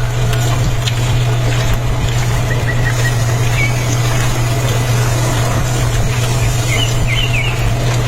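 A motor running steadily with an unchanging low hum, a few faint chirps heard above it.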